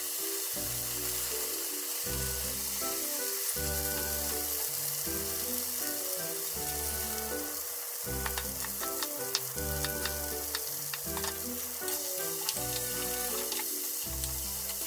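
Potato cubes and sliced wiener sausages sizzling in oil in a frying pan. From about halfway through, a knife taps on a mango-wood cutting board as an onion is cut, and a wooden spatula stirs the pan near the end. Background music runs underneath.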